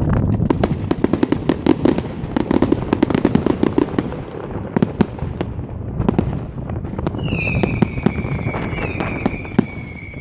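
Fireworks display: a dense crackle of rapid pops for the first few seconds, then scattered bangs, with a high, steady whistle starting about seven seconds in and again near the end.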